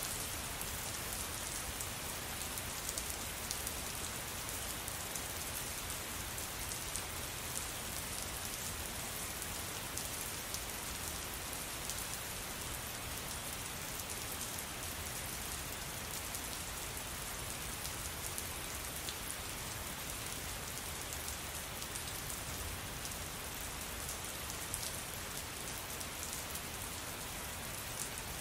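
Steady rain falling, an even hiss with many small, sharp drop impacts throughout.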